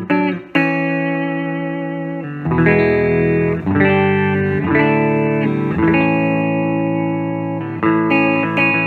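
Electric guitar with 'Fat Bottom' humbuckers, bridge and neck pickups together, played clean through a Fender Vibrolux Reverb amp. Chords are strummed and left to ring, a new one every second or two, after a brief gap near the start.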